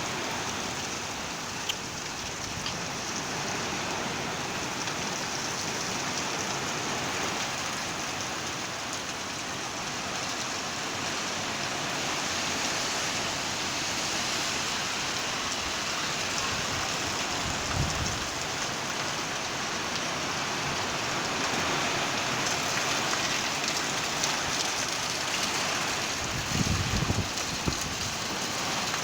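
Heavy storm rain pouring steadily. Two brief low rumbles break through, about two-thirds of the way in and again near the end.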